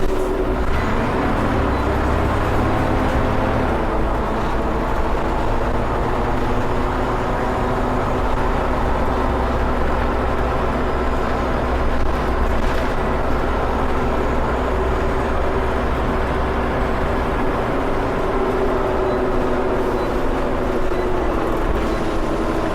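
Scania OmniCity single-deck bus's diesel engine thrashing hard under load, heard from inside the rear of the bus, with a steady low rumble and an engine note that drifts up and down.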